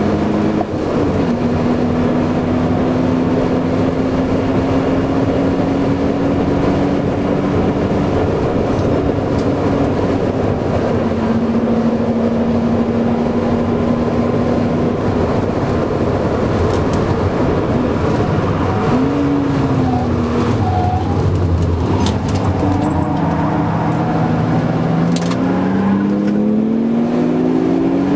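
BMW Z3 2.8's inline-six engine pulling at track speed, heard from inside the cabin over heavy wind and road noise. The engine note holds steady for long stretches, falls and rises between them, and climbs steadily under acceleration in the last few seconds.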